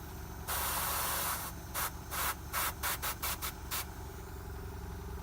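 Airbrush spraying in bursts of air hiss: one longer spray about half a second in, then a quick run of short puffs, over the steady hum of its air compressor.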